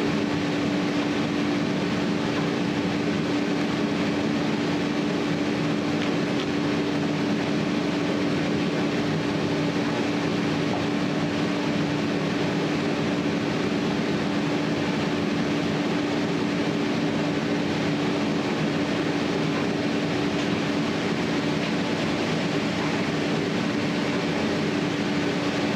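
Steady, unchanging mechanical drone with one constant low hum running through it, the sound of a fan or motor running without let-up.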